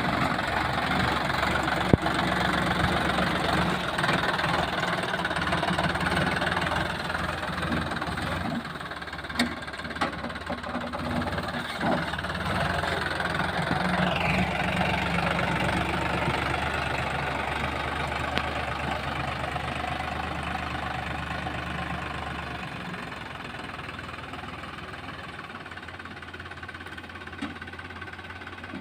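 Diesel engine running steadily, slowly growing quieter over the last several seconds, with a few sharp knocks along the way.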